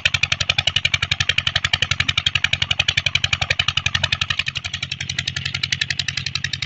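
Petter diesel engine running on a cold start with a fast, even beat of about twelve pulses a second. The beat eases a little about two thirds of the way through.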